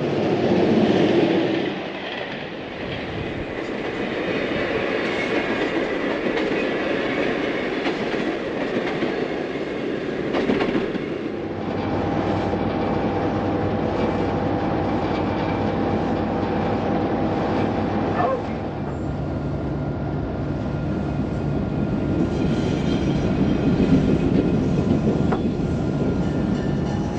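Passenger train running over jointed rail, its wheels clicking over the rail joints with a steady rumble.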